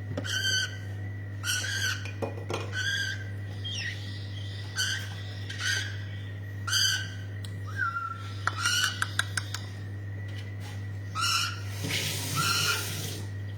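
Hand-reared parrot chicks calling, short harsh calls repeated about once a second, with a quick run of clicks near the middle and a steady low hum underneath.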